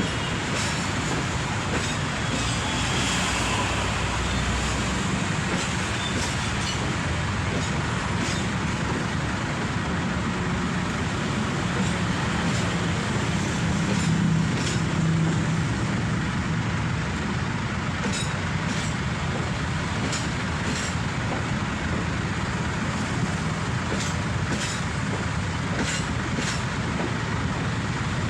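Train passing: a steady rumble with scattered sharp wheel clicks.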